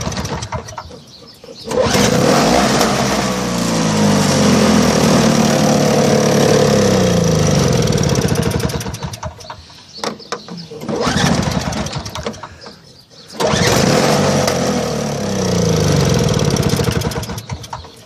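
John Deere TRS 21 snowblower's Tecumseh two-stroke engine running, revving up and sagging back three times. The owner figures its carburetor needs cleaning out.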